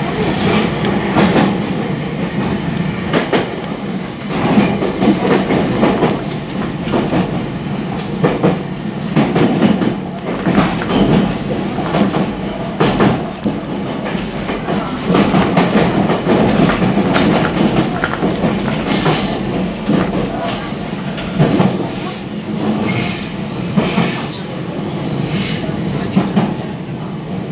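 Electric train running slowly into a terminal station, heard from inside at the front of the train: wheels clattering over points and rail joints, with a few short high wheel squeals on the curves, most clearly about two-thirds of the way through.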